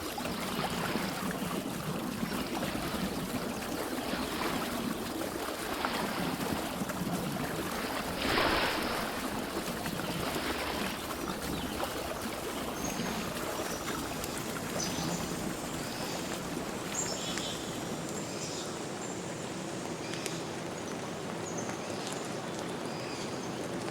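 Water running steadily, like a small stream, with one louder rush about a third of the way in. Faint, short high bird chirps come in over the second half.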